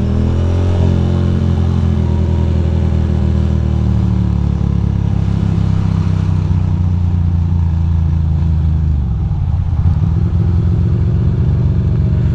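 Ducati Monster 821's V-twin engine running on the move. Its pitch climbs at the start and then holds steady, drops off about nine seconds in, and picks up again.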